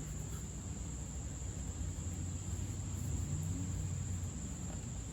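Steady high-pitched chirring of crickets over a low background hum, with no distinct tool or metal sounds.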